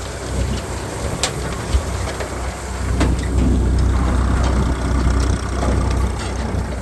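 TAFE tractor engine running steadily with a deep low hum, with a few sharp clicks about a second in and at three seconds.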